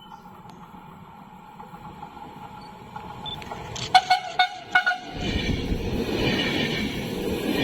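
E464 electric locomotive and Vivalto double-deck coaches approaching, a steady whine over a slowly growing rumble. A quick run of sharp ringing clacks comes about four seconds in, then from about five seconds the loud rumble of the train passing close.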